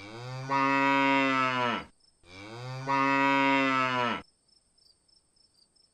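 Domestic cow mooing: two long, steady moos, one after the other.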